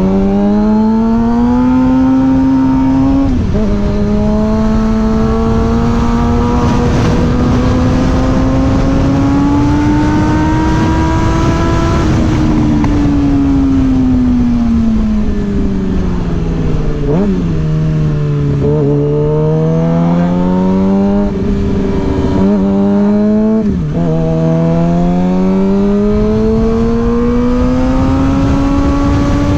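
Suzuki GSX-R 600 inline-four engine under way, its pitch climbing as it accelerates through the gears. There is a sudden drop in pitch at each gear change: one a few seconds in, and two more quickly near the end. In the middle the revs fall steadily as the bike slows, then rise again. Wind noise runs underneath.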